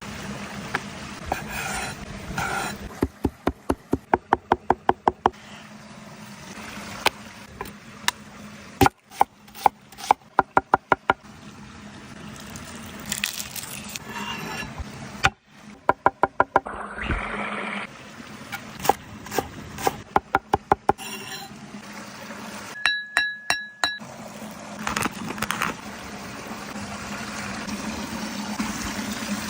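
Several runs of quick, evenly spaced knocks, each a second or two long, over a steady water-like noise, with abrupt breaks between sections.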